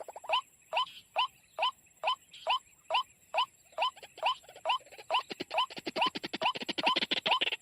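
A bird's call repeated about twice a second, each a quick rattle that ends in a short rising note. It grows denser and busier in the last couple of seconds.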